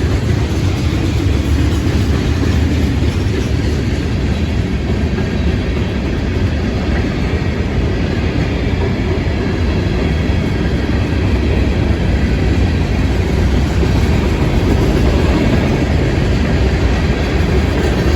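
Freight train rolling past close by, a steady loud rumble of steel wheels on the rails.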